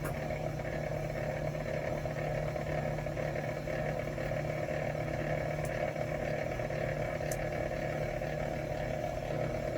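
Electric benchtop wire stripping machine running with a steady motor hum, with a couple of faint ticks partway through.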